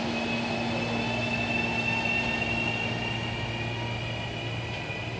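Electric commuter train running at the station, a steady low hum under a high thin whine that slowly rises in pitch.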